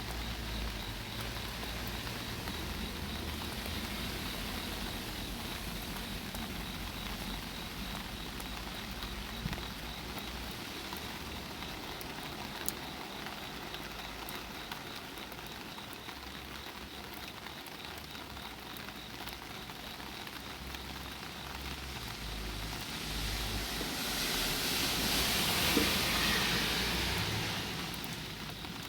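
Rain falling on an umbrella overhead, a steady patter with a couple of sharper single drops. Near the end a car passes on the wet road, its tyre hiss swelling and fading over a few seconds.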